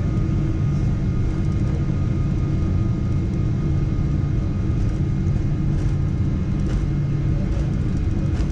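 Steady cabin noise inside a Boeing 777-200ER airliner: an even, deep rumble of engines and airflow with a faint steady whine above it.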